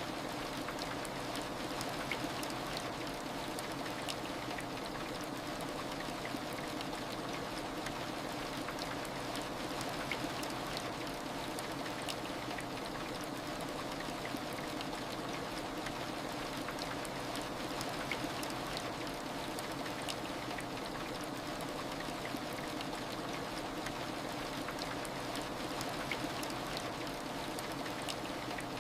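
Steady heavy rain, an even wash of falling water with scattered small drop ticks.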